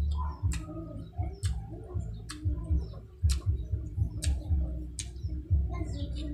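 Close-up chewing of saucy barbecued pork ribs: sharp wet mouth smacks about once a second over a low, muffled chewing sound.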